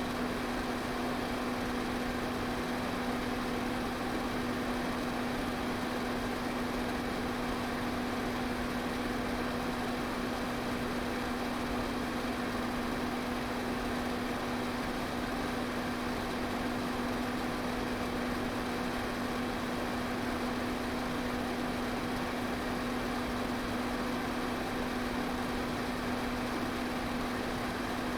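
Electric pedestal fan running steadily: an even rushing of air with a constant motor hum under it.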